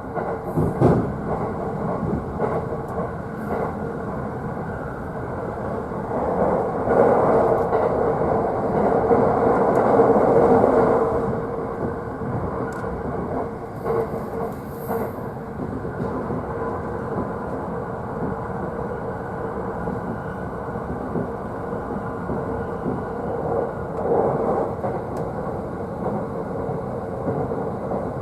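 JR East E531 series electric train running, heard from inside the upper deck of a double-decker car: a steady rumble of wheels on rail with a constant hum and a few clicks. It swells louder about six seconds in and eases back a few seconds later.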